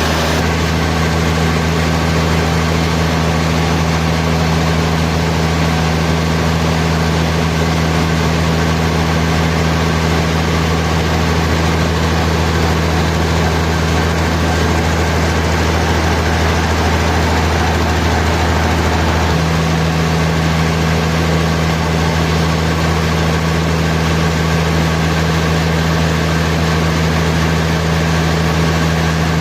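Sawmill machinery running steadily with a deep, constant engine hum; the hum's tone shifts slightly about two-thirds of the way through.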